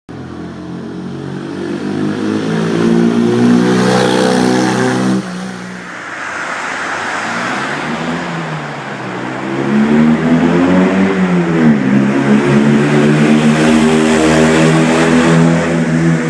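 Fiat 500 engine and exhaust pulling hard through a tunnel, revs climbing, then a sudden drop about five seconds in as the throttle is lifted for a gear change. It pulls again, shifts once more just before halfway through, and runs at high revs to the end.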